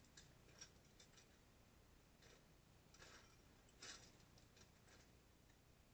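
Faint, scattered clicks and light rattles of plastic Lego pieces being handled and sifted through, the loudest a little before the four-second mark.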